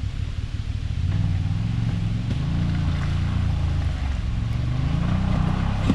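Off-road buggy engine revving as it works over an obstacle, the pitch climbing about a second in, then rising and falling with the throttle.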